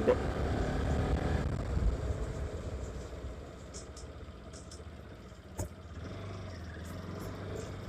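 Motorcycle running on the move, a steady low engine rumble mixed with road and wind noise that fades over the first few seconds and then holds steady. A single sharp click comes about five and a half seconds in.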